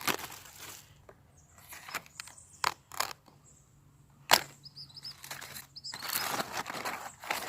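Weeding in garden soil: intermittent snaps, scrapes and rustles of plants being worked loose, with a longer stretch of rustling near the end. There are a few faint high chirps in the middle.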